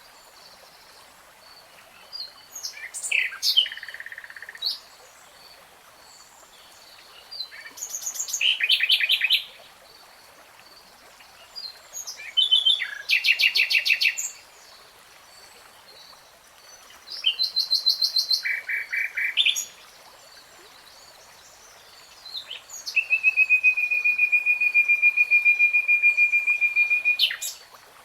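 A nightingale singing: five separate phrases of rapid repeated notes and trills with pauses of a few seconds between them, the last a long, even trill of about four seconds.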